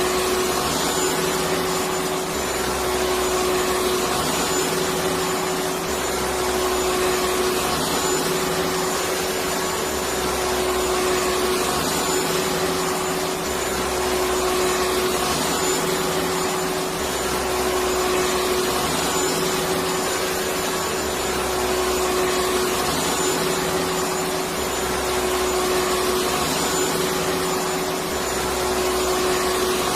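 Electric vacuum cleaner running continuously: a steady motor hum over an even rushing hiss, with a low rumble that swells and fades every couple of seconds.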